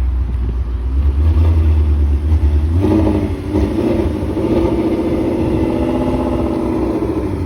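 A car engine running over a steady low rumble; from about three seconds in, its note rises and wavers as it revs.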